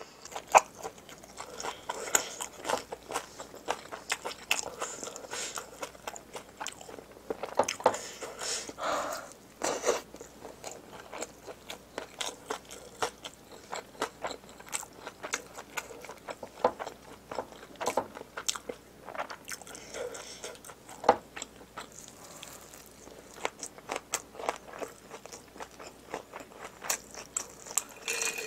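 Close-miked eating: steady chewing and crunching of food, many short irregular crunches and mouth clicks. Near the end, a drink is sipped straight from a pitcher.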